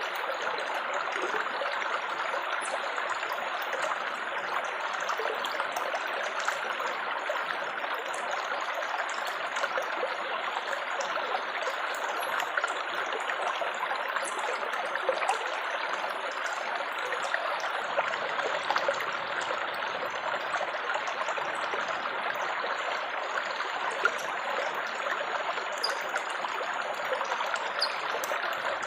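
Small stream of water trickling and babbling steadily, with a light scatter of little splashes.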